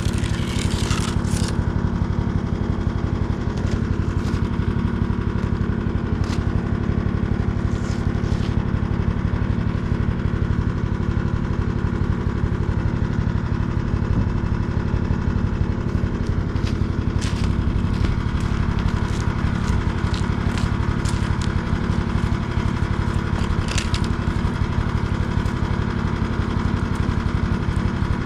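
Small engine running steadily at an even speed, with a few faint clicks over it.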